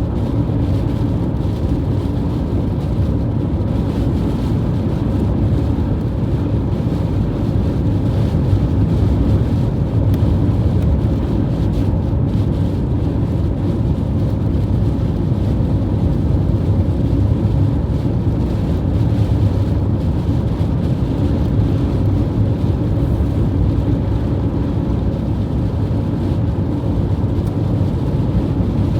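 High wind blowing against the microphone: a steady, loud low rumble with no distinct gusts or breaks.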